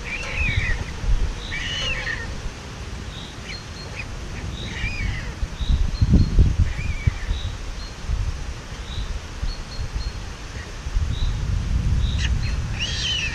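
Bird calls, each short and rising then falling in pitch, repeated several times over a few seconds, with faint high chirps between them. Under the calls is a gusty low rumble of wind on the microphone.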